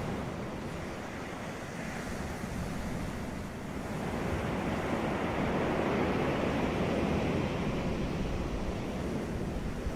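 Sea waves breaking and washing on a beach, a continuous surf wash that swells and eases, with some wind rumble on the microphone.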